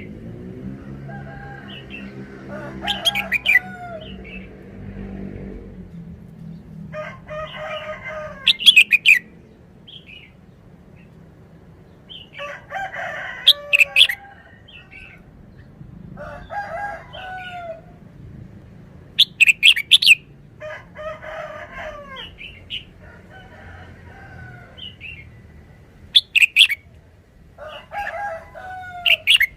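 Red-whiskered bulbul singing short warbled phrases, about six of them a few seconds apart. Most phrases carry a few sharp, loud high notes.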